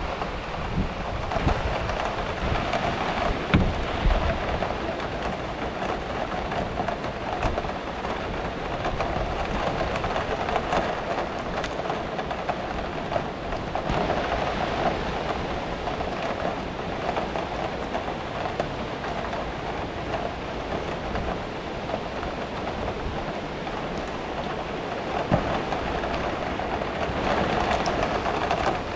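Steady rain falling, with a low rumble of thunder in the first few seconds of a weak thunderstorm.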